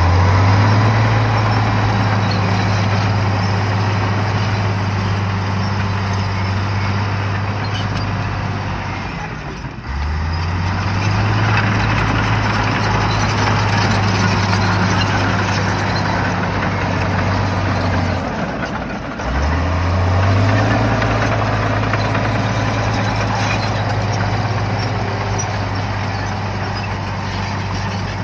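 Shantui bulldozer's diesel engine running hard under load. Its pitch sags and climbs back up three times, about ten seconds apart.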